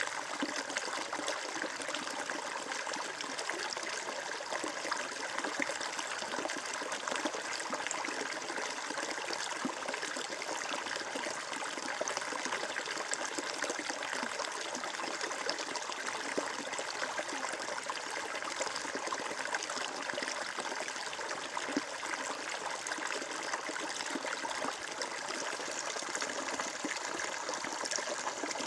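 Water flowing and trickling steadily, as in a small stream, with fine splashing and bubbling throughout.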